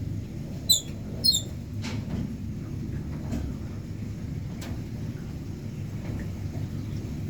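Flooded-forest ambience: a steady low rumble, with two short high squeaky calls from an animal about half a second apart about a second in, and a few faint ticks later.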